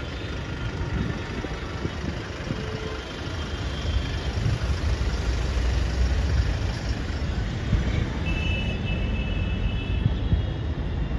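Steady low rumble of a passenger airliner, with a few faint high tones; it grows a little louder about four seconds in.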